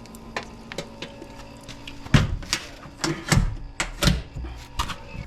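A few sharp knocks and clunks, about six in two seconds, starting about two seconds in.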